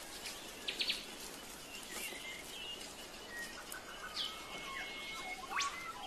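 Birds calling over a faint background hiss: quick chirps, short warbling phrases, a held whistle and a fast upward sweep near the end.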